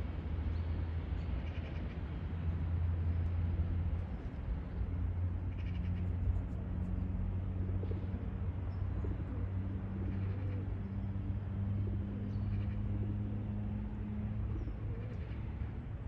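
Occasional brief animal calls over a steady low hum.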